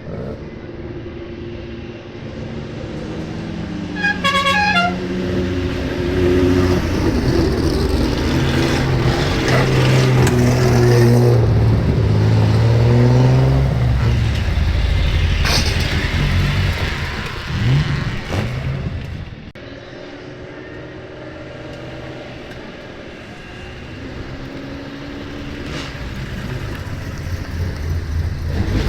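Loud modified exhausts of old Japanese cars, revving and running, loudest through the middle and settling to a lower steady note after about twenty seconds. About four seconds in, a multi-tone musical horn plays a quick falling run of notes.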